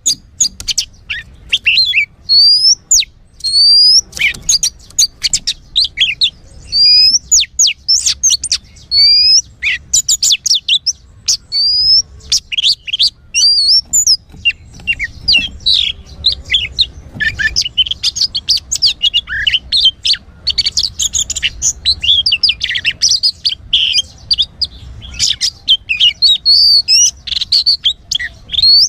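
Oriental magpie-robin (kacer) singing: a loud, varied run of clear whistles and rising chirps, turning denser and more chattering from about halfway.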